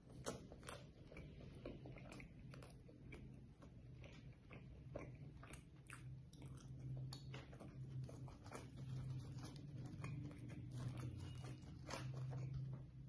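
Close-miked chewing and wet mouth clicks of a person eating mutton karahi with naan, many small crisp clicks one after another, over a low hum that comes and goes.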